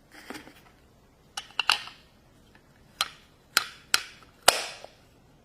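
Small toys and their packaging being handled on a tabletop: a series of sharp taps and clicks, about eight in all, some followed by a brief rustle.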